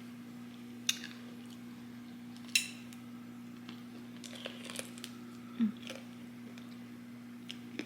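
A person eating, with a few sharp crunches or bites about a second in, near three seconds and again past five seconds, and quieter chewing between. A steady low hum runs underneath.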